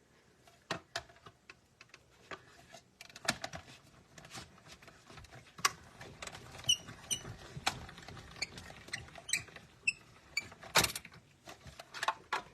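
Irregular clicks, taps and paper handling while a paper circle is cut out for a card, with a run of quick high-pitched ticks in the middle and a sharp knock near the end.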